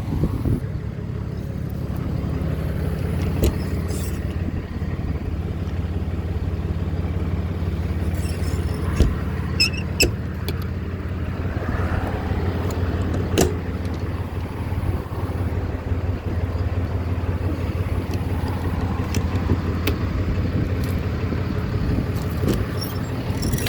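The diesel engine of a 2011 Dodge Ram 5500 service truck, a 6.7 L Cummins turbo-diesel, idling steadily. A few short clicks and knocks sound over it.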